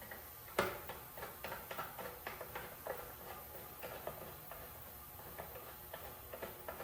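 Irregular light clicks and taps of hand tools and small metal engine parts being handled while fastening parts onto a small engine, with one sharper click about half a second in.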